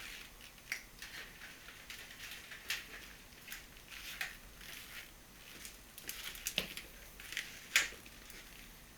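Irregular clicks, taps and rustles of vacuum cleaner parts being handled during disassembly, with one sharper click near the end.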